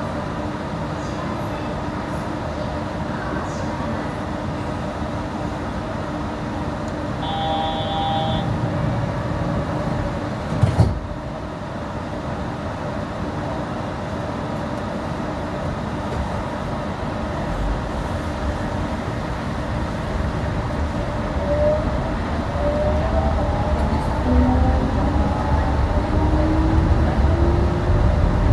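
Yurikamome rubber-tyred automated train running, a steady rumble of tyres and car body, with a sharp knock about eleven seconds in. In the last third a motor whine rises steadily in pitch as the train picks up speed.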